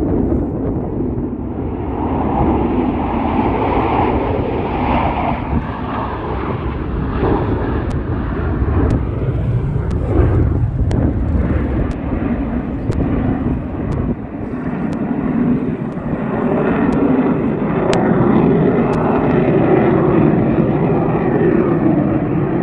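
Jet aircraft of the Blue Angels flying over, a loud continuous jet engine noise that swells and eases as the jets pass.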